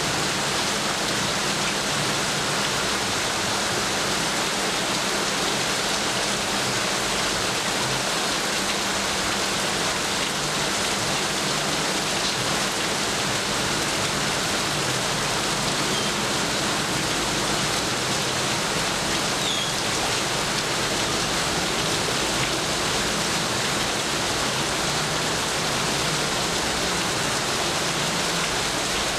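Steady rain falling, an even hiss that stays at the same level throughout.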